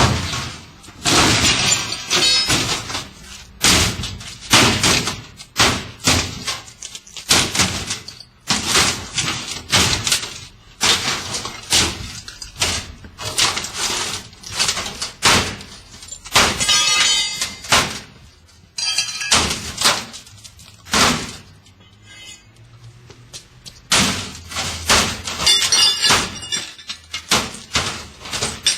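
Repeated hard blows on a washing machine: a long run of loud bangs and crashes, about one or two a second, some followed by a metallic ringing.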